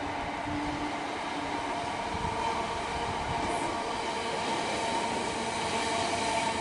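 Passenger train running past on the line, a steady whine over the rumble of its wheels on the rails, slowly growing louder.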